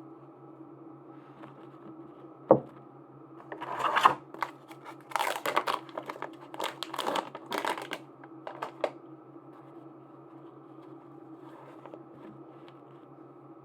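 A sharp tap, then packaging wrapping crinkling and tearing in a series of bursts for about five seconds as a merchandise item is unwrapped by hand.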